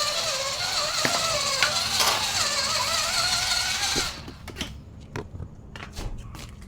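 Small electric motor and gears of an RC 6x6 truck whining, the pitch wavering up and down as the throttle changes. It cuts off suddenly about four seconds in, leaving scattered light clicks.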